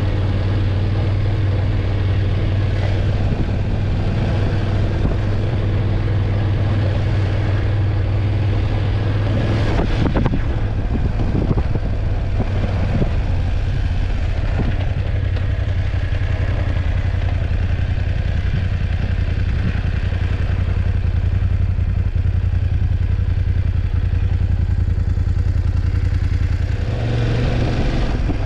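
BMW F850GS parallel-twin motorcycle engine running steadily under way, recorded on the bike. There is a short spell of rattling and knocks about ten seconds in, and the engine note shifts near the end.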